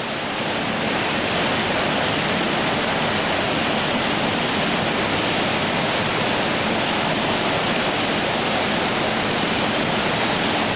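Whitewater rushing through a steep river rapid: a loud, steady wash of falling water.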